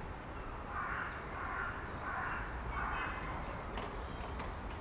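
A bird calling four times in quick succession, with the calls about half a second apart, over a steady low background rumble.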